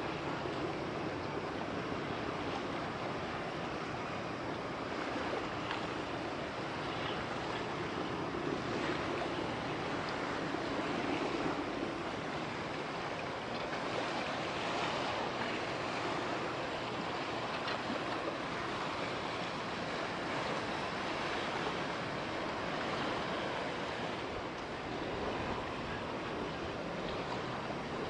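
Steady outdoor harbourside noise of wind on the microphone and moving water, with a low hum that comes and goes in the first half.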